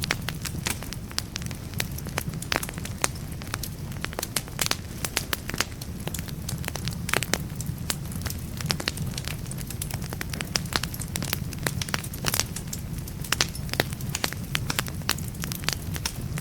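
Wood fire burning in a fireplace: logs crackling and popping in quick, irregular snaps over a steady low rumble of the flames.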